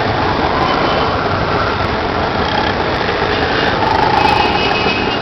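Steady vehicle engine and road noise heard while riding in traffic.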